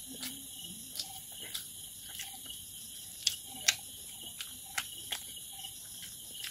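Close-up chewing of a handful of rice: about ten sharp, wet mouth clicks and lip smacks at uneven intervals, over a steady high insect buzz like crickets.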